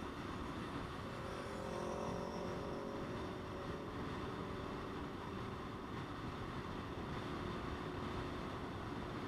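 Motorcycle running steadily on the road, its engine note under wind and road noise.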